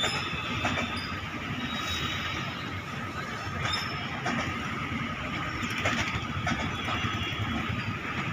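Passenger train coaches rolling past, with a steady low rumble from the wheels and rails, irregular knocks as the wheels cross rail joints and points, and a thin steady squeal.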